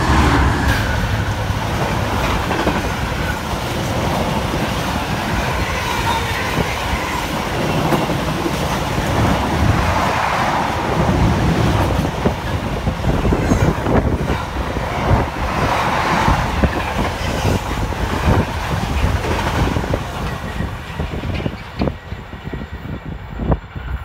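Freightliner Class 66 diesel locomotive passing at speed, its two-stroke V12 engine running, followed by the long rumble and clickety-clack of intermodal container wagons over the rails. The noise eases about three-quarters of the way through, leaving separate wheel clacks as the last wagons go by.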